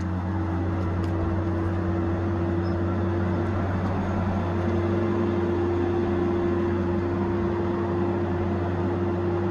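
Tigercat 870C feller buncher's diesel engine running at a steady speed, a constant low hum with an unchanging drone.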